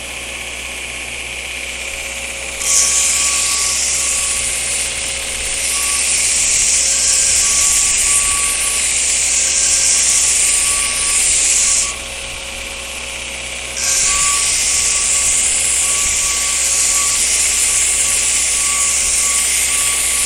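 Belt grinder running, with two long passes of steel held against the belt on the flat platen to grind off stubborn forge scale: a loud, hissing grind for about nine seconds, a short break with only the running machine, then about seven seconds more.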